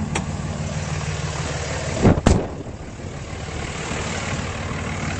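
5.9-litre Cummins inline-six turbo diesel of a 2006 Dodge Ram 2500 idling steadily, just after being started. A loud thump about two seconds in.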